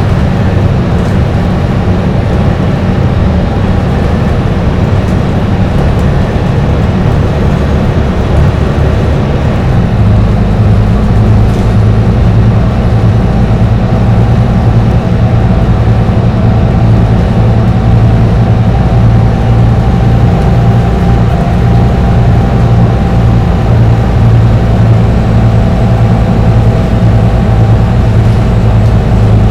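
Dennis Trident double-decker bus's diesel engine pulling at speed on a highway, a steady drone with road noise. About ten seconds in the engine note steps up and gets louder, then holds steady.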